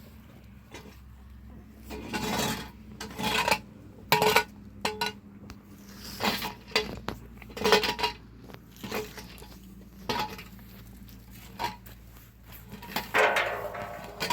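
Metal pots and dishes being handled: irregular clanks and knocks, some ringing briefly.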